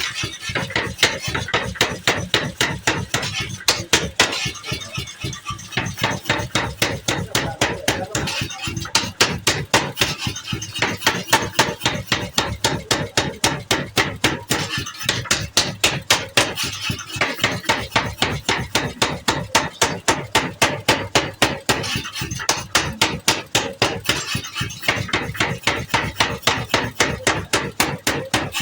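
Power hammer striking hot steel in a fast, steady run of blows, about five a second, with brief dips in the rhythm: the plow part is being flattened and drawn out longer.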